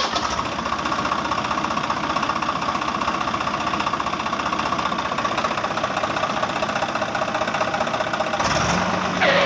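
A tractor engine running steadily with a fast, even chugging knock. Near the end a low hum joins it and a rising tone begins.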